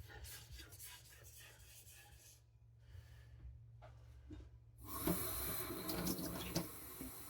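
Steel knife blade stroked lightly across a whetstone with no pressure, giving faint, repeated rubbing strokes. After a short quiet gap, a louder steady hiss starts about five seconds in.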